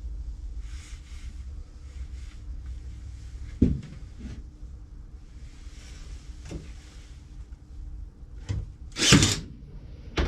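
Workshop handling sounds as cedar birdhouse pieces and tools are worked on a bench: scattered knocks and clicks, one louder knock a few seconds in, and a short, loud rushing burst followed by a sharp click near the end, over a low steady hum.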